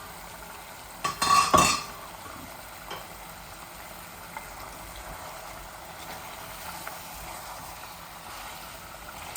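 A metal spoon clatters and scrapes against the cooking pot about a second in, then the chicken and shatkora curry sizzles steadily as it fries.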